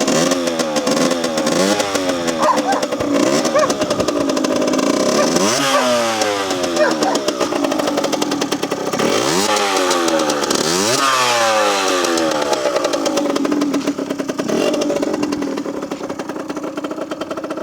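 Rieju RR 50cc two-stroke motorcycle engine being revved in a series of quick throttle blips, each rising sharply in pitch and falling back. After about twelve seconds it settles to a steady idle.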